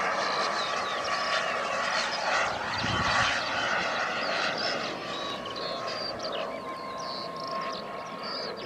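Model jet turbine of a large RC F-86 Sabre in flight: a steady whine over a rushing jet noise. It swells about three seconds in, then eases slightly.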